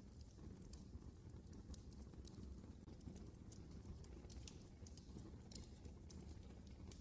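Wood fire crackling faintly: irregular sharp pops and snaps over a low, steady rumble of the flames.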